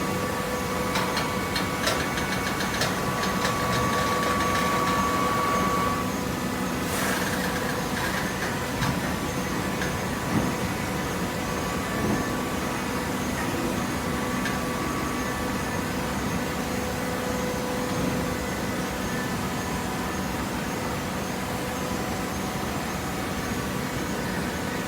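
Hydraulic baler's machinery running with a steady hum. A higher whine drops out about six seconds in, followed by a brief hiss and a couple of light knocks.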